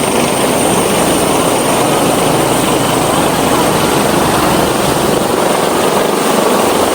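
Firefighting helicopter close by, its rotor and turbine engine running loud and steady, with a thin high whine held over the rotor noise.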